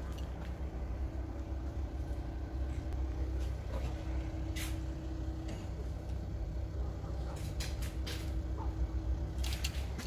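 VW 2.0 TDI CBAB four-cylinder diesel engine idling steadily, with a few short hisses mixed in.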